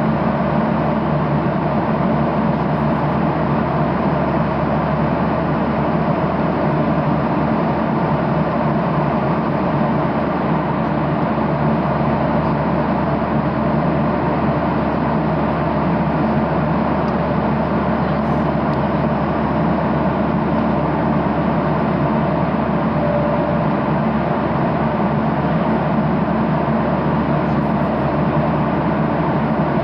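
Steady cabin noise of a Boeing 737-800 in flight: the rush of air past the fuselage and the hum of its CFM56-7B turbofan engines, unchanging throughout.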